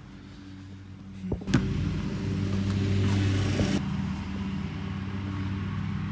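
A steady, engine-like low hum with a light hiss, starting about a second in, with two sharp knocks just as it begins, which fit a basketball bouncing on a concrete driveway.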